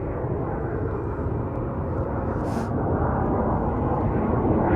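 Avro Vulcan's four Rolls-Royce Olympus turbojets rumbling as the delta-wing bomber flies a display pass, the noise growing steadily louder as it approaches.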